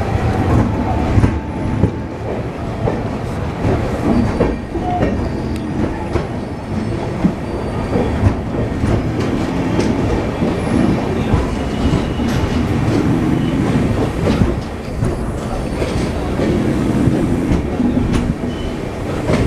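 Steady, loud rumbling and rattling noise with many short clicks, like a vehicle in motion.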